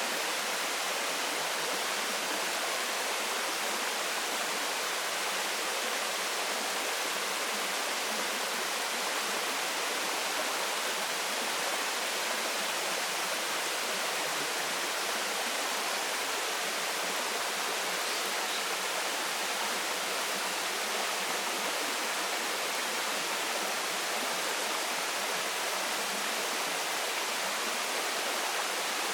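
Waterfall: a steady rush of falling water, even and unbroken, with most of its sound in the mid and high range and little low rumble.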